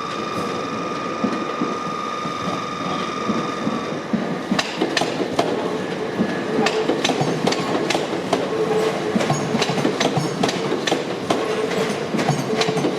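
Train wheels clicking over rail joints and pointwork as a train moves through the station throat, with a light intermittent wheel squeal. A steady high whine is heard at first and stops about four seconds in, just before the clicking starts.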